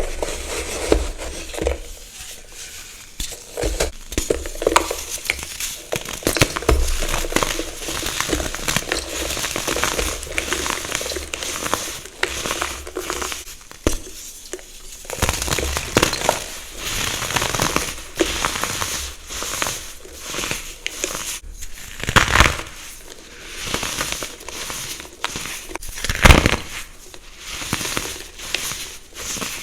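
Close-miked crunching and crushing of something brittle: a dense, irregular run of crackling crunches, with a few louder crunches in the second half.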